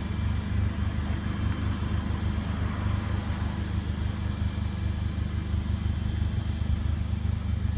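Car engine idling steadily: a low, even rumble.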